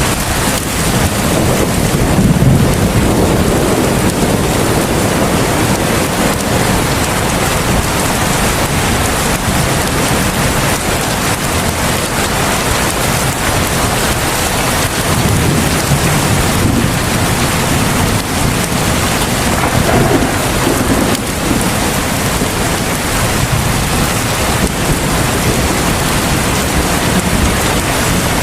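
Heavy rain falling in a steady downpour, with low thunder rumbling now and then.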